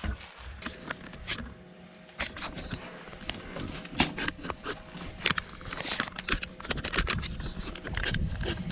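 Clutter being shifted and rummaged through: a run of irregular clicks, knocks and scrapes of objects being handled and knocked together, over a faint steady hum.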